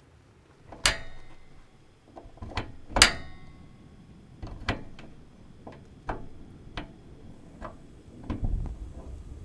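A run of knocks and clicks from objects being handled, irregularly spaced, with two louder knocks about two seconds apart that each ring briefly like metal.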